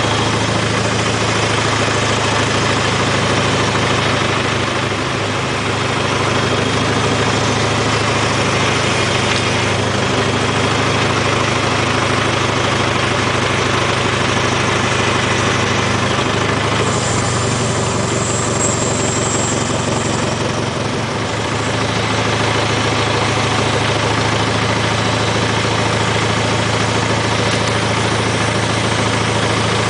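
IHC tractor engine running steadily at idle, dipping slightly twice, with a thin high-pitched whine for a few seconds past the middle.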